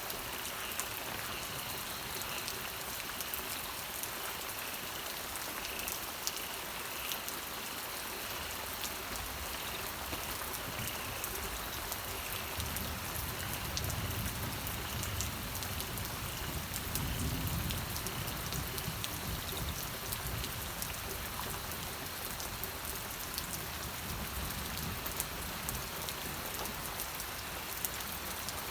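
Steady rain falling, an even hiss with many sharp drop hits. A low rumble swells and fades about midway.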